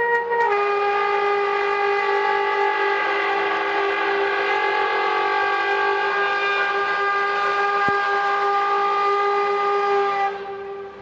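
A long, loud, horn-like tone with many overtones, one of the eerie 'strange sounds' recordings. It shifts pitch about half a second in, holds steady, and cuts off about ten seconds in. Such sounds are described as more industrial than anything else.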